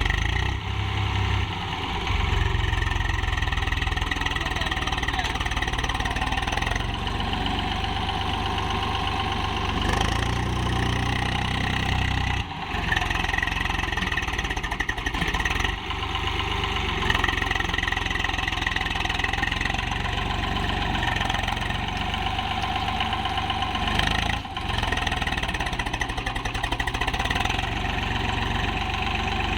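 Swaraj tractor's diesel engine running steadily while working with a trolley loaded with sand, broken by a few brief dips in sound.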